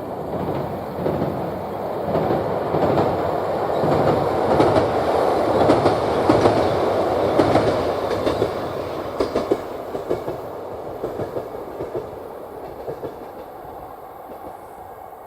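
A train passing on a railway bridge, the rumble building to its loudest about six seconds in. A run of sharp wheel knocks from the rail joints follows, then the sound fades steadily as the train moves away.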